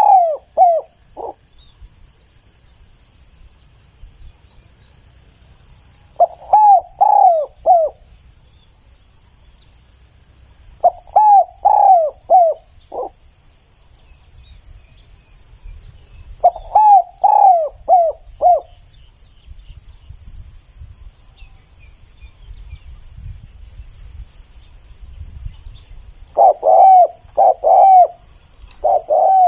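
Spotted dove cooing: short phrases of four or five slurred notes, about six phrases with a longer pause before the last two. Insects trill steadily and faintly behind it.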